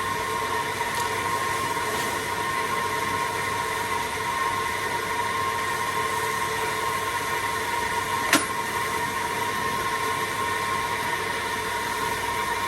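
A machine running steadily with a constant whine, and a single sharp click about eight seconds in.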